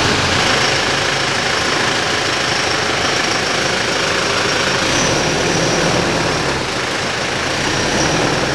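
Toyota Prado 150 engine idling steadily just after start-up while the 4WD creeps slowly backward. A faint steady high whine sits above the engine note.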